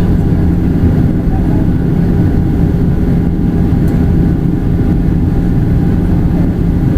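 Steady cabin noise of a Boeing 737-800 in flight: the CFM56 engines and rushing air make a loud, even rumble with a steady low hum running through it.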